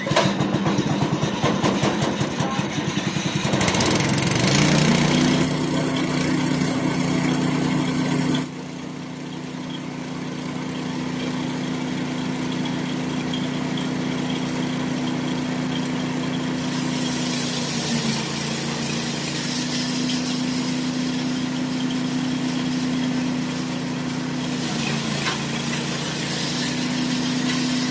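Small petrol engine of a mini paddy thresher starting and running up to a steady hum a few seconds in. It turns quieter about eight seconds in and runs on steadily, with brief slight dips in speed.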